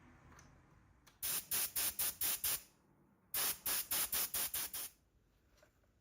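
A trigger spray bottle squirted in quick pumps: about seven short hissing squirts, a brief pause, then about eight more.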